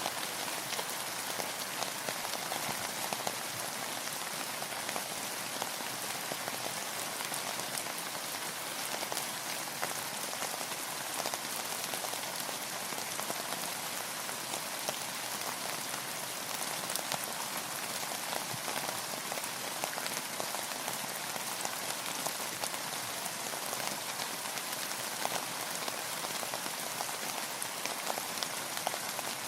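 Steady rain falling, a dense even patter of many drops hitting a surface.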